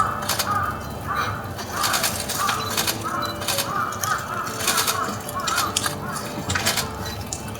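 Small birds splashing as they bathe in shallow water, short splashes every second or so, over a run of repeated harsh bird calls.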